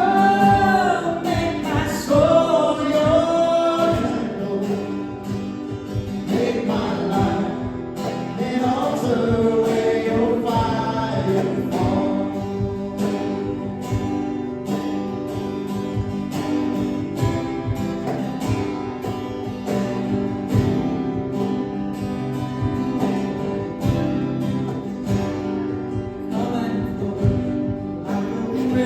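Worship music: voices singing without clear words over acoustic guitar strumming and sustained chords, the singing most prominent in the first dozen seconds before the accompaniment carries on alone.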